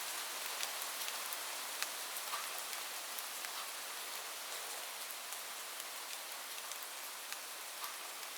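Steady rain falling on a roof: an even hiss with many separate sharp drop hits scattered through it.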